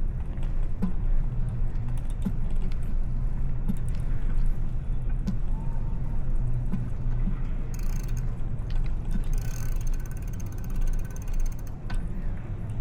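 Bicycle riding with a steady low rumble of road and wind noise and scattered small clicks. About nine seconds in comes a couple of seconds of rapid ticking, the ratcheting of the rear freewheel as the rider coasts.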